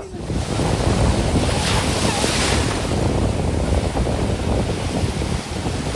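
Ocean surf washing on a beach, with wind buffeting the microphone. A louder rush of breaking surf comes about two seconds in.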